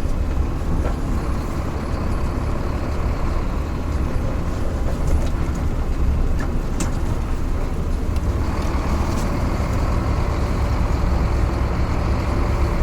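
Scania truck's diesel engine running with a steady low rumble.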